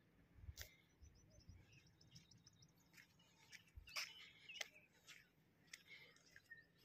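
Faint bird chirps and short trilled calls over a near-silent background, with a few brief clicks, the loudest about half a second and four seconds in.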